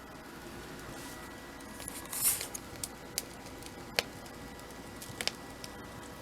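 Indoor handling noises: a brief rustle about two seconds in, then a few sharp clicks, over a faint steady hum.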